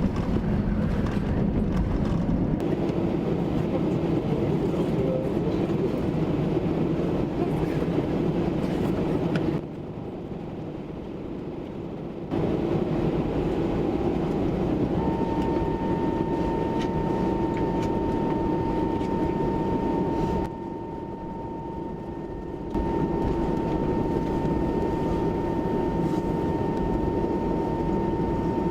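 Airbus A319 jet engines running with a steady rumble. A steady high whine comes in about halfway through. Twice the sound drops away for a couple of seconds.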